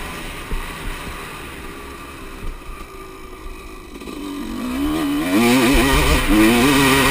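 Motocross bike engine, faint at first, then growing much louder from about four seconds in, its pitch climbing and wavering up and down as the throttle is worked.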